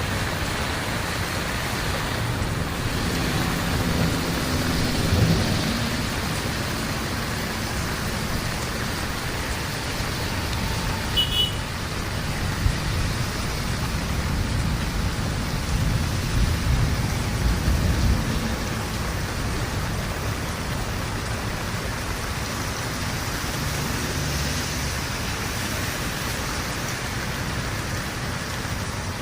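Heavy rain falling steadily, with low rumbles of thunder swelling about five seconds in and again around sixteen to eighteen seconds.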